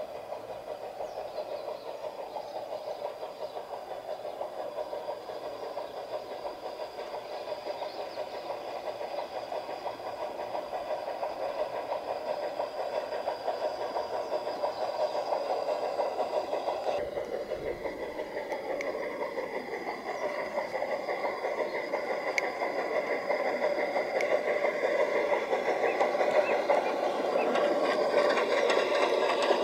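Garden-scale model train running on outdoor track: its motor and wheels make a steady, fast rattle with a thin mechanical whine. The sound grows gradually louder, and there is an abrupt change about 17 seconds in.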